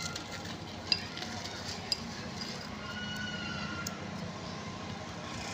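Gritty charcoal being crumbled by hand, a steady crunching rustle with two sharp snaps about one and two seconds in.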